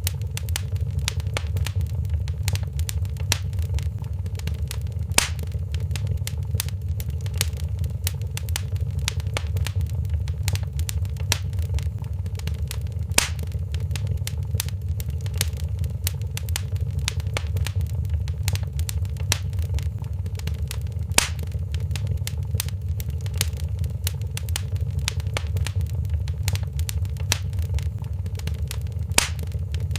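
Wood fire crackling in a fireplace: many small snaps and pops over a steady low rumble, with a louder pop about every eight seconds.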